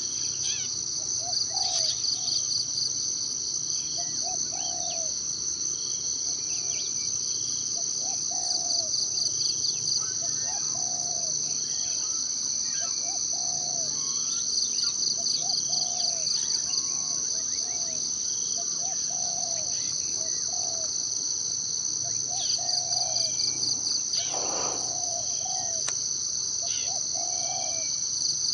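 Forest ambience: a steady high-pitched insect chorus that pulses in stretches, with a short low call repeating about once a second and scattered bird chirps over it.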